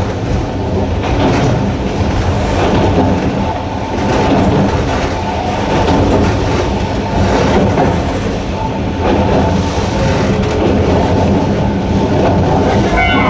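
Hokusei Line narrow-gauge electric train running, wheels clicking over rail joints over a steady low hum from its nose-suspended traction motors.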